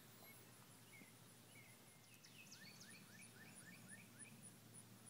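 Near-silent pond-side air with a small bird singing a quick run of about seven repeated chirps around the middle, over a faint, even, high ticking about three times a second.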